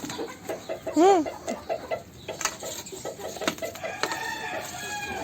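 Chickens clucking, with one loud single cluck about a second in and fainter, higher drawn-out calls near the end, among a few sharp clicks.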